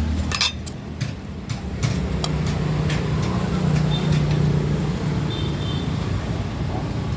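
Road traffic with a motor vehicle engine running close by, a steady low hum that drops in pitch near the start, with scattered clicks and knocks.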